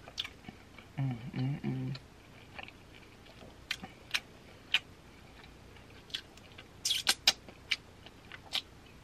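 Close-miked eating sounds: chewing with wet mouth clicks and lip smacks, scattered and irregular, a quick cluster of them about seven seconds in. About a second in comes a short hummed 'mm' of enjoyment.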